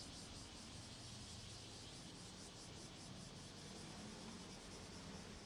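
Faint outdoor ambience: a steady low hiss with a fast, regular high-pitched pulsing through it.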